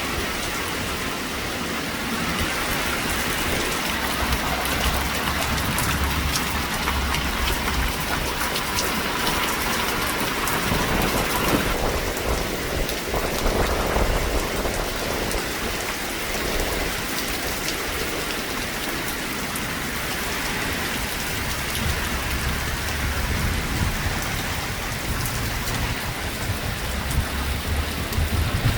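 Heavy rain falling steadily and hard on the ground and surfaces, an even hiss of drops.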